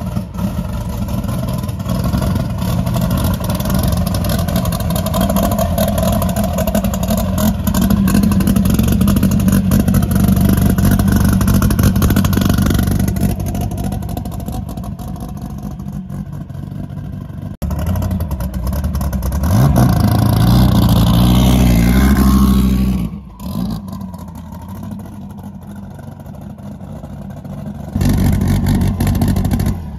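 Twin-turbocharged V10 of a 2014 Dodge Viper, heard in several edited clips that cut abruptly from one to the next. About two-thirds of the way through, the pitch climbs steeply as the car revs hard under acceleration.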